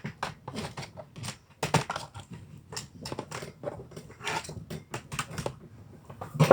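Window blind rattling and clattering as it is handled and taken down, a quick irregular run of clicks and knocks, with one loud knock at the very end.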